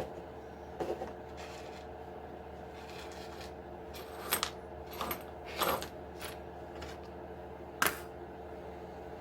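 Short sharp clicks and clinks of small hard parts and tools being handled on a workbench while an RC truck is taken apart: about five over several seconds, the loudest near the end. A steady hum runs underneath.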